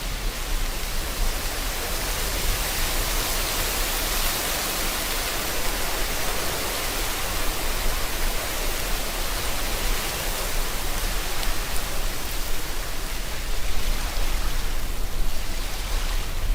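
Steady rain falling: a dense, even hiss.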